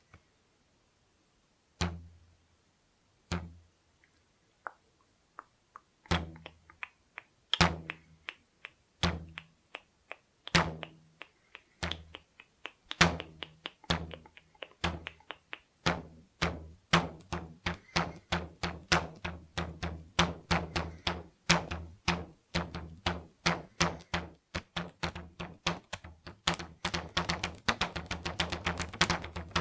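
Stretched rubber bands plucked so they twang, each pluck a sharp snap with a short low buzz. A few single plucks at first, coming faster and faster until the plucking is nearly continuous in the second half.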